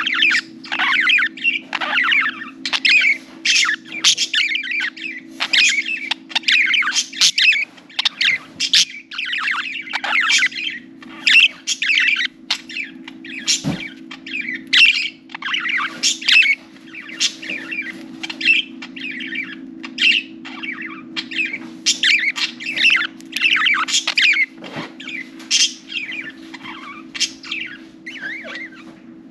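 Several budgerigars chattering and warbling together in a continuous stream of rapid chirps and squawks, with a steady low hum underneath and a single sharp click about halfway through.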